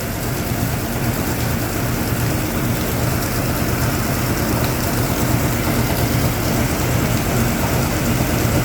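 Hoover Automatic 820 washing machine spinning while spraying rinse water: a steady motor and drum hum under the hiss of water spray.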